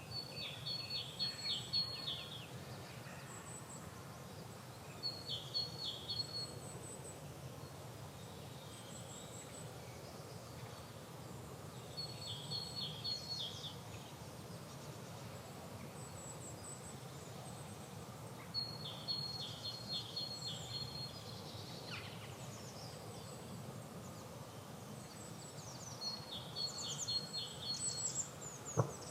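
A songbird repeating the same short, high-pitched song phrase about every six or seven seconds, five times, with fainter calls from other birds between the phrases. A steady low background noise runs underneath.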